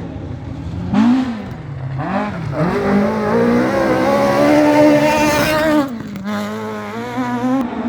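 Rally car engine being worked hard on a stage: two quick rises and falls in revs in the first couple of seconds, then a long climb in pitch under hard acceleration for about three seconds, cut off sharply near the six-second mark as the driver lifts, after which it runs lower.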